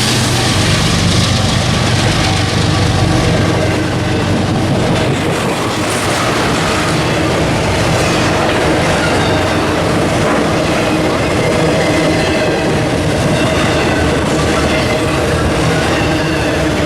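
Train passing close by: a low engine drone in the first few seconds gives way to the steady rolling noise of wheels on rails, with faint wheel squeal above it.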